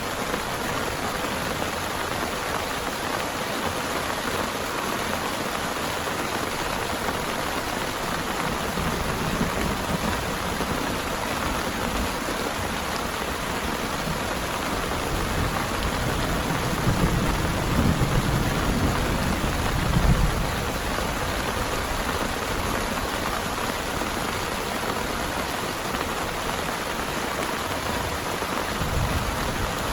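Heavy rain pouring steadily, with a roll of thunder rumbling low from about halfway through and peaking a few seconds later.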